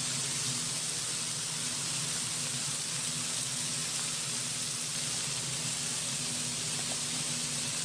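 Steady sizzling of food cooking on a hot griddle, with a low steady hum underneath.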